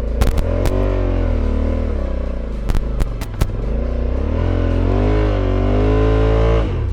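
Adventure motorcycle engine revving hard under load on a steep sand hill climb, its pitch wavering up and down, with a few sharp knocks along the way. Near the end the revs climb, then the engine note drops off suddenly as the rider lets off the gas and the climb fails.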